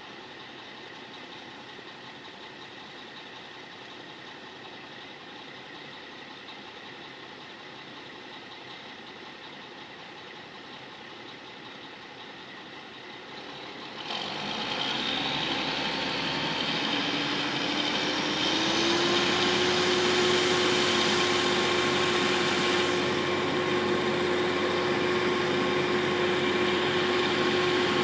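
A steady low machine hum, then about halfway through a new air conditioner starts up with a sudden jump in loudness. Its motor hum climbs in pitch over a few seconds as it spins up, then holds a steady louder running tone.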